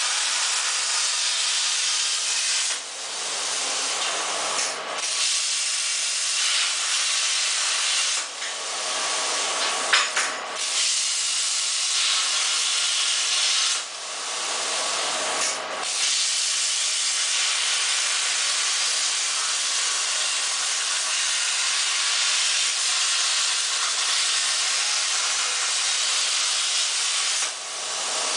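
CNC plasma cutter cutting sheet metal: a steady, loud hiss from the torch, with several short dips in level and a sharp click about ten seconds in.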